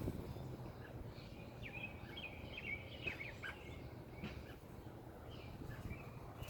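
American robin giving faint, scattered short chirps, an agitated parent near its nest, over steady low background noise.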